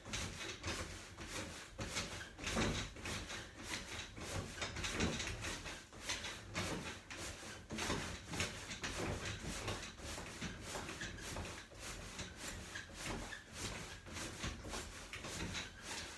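A small child's trampoline being jumped on: a steady rhythm of bounces, each a soft thump with creaking and rubbing from the springs and frame.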